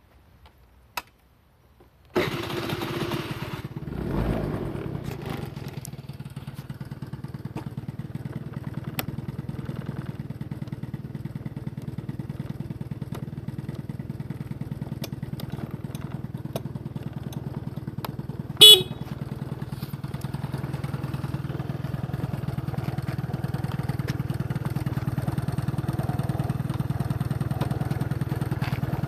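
Honda Live Dio AF34 scooter's 50cc two-stroke single starting about two seconds in, revving briefly, then idling steadily. About two-thirds of the way through there is one short horn beep.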